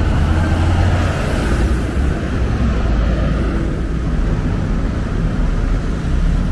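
Steady road traffic noise, a loud continuous rumble of passing vehicles.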